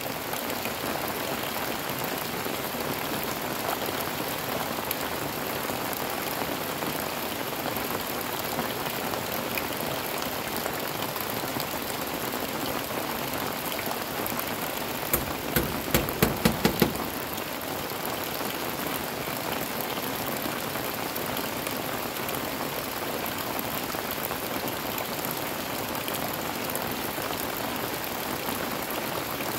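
Heavy rain falling steadily, with a quick run of about six hammer blows about halfway through, nailing bamboo lattice strips onto a bamboo wall.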